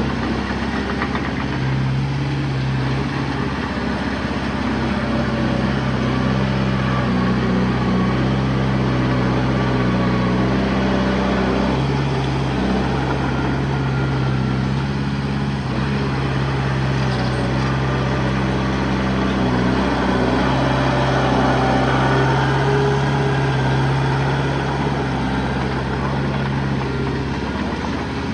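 Diesel engine of heavy earthmoving machinery running steadily, its pitch shifting a little now and then.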